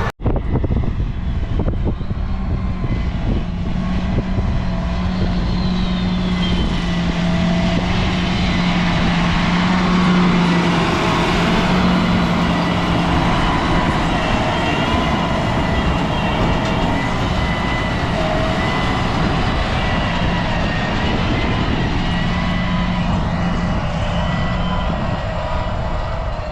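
A heavy farm vehicle's engine running steadily under way, with a constant low hum and a few faint steady whining tones over the running noise.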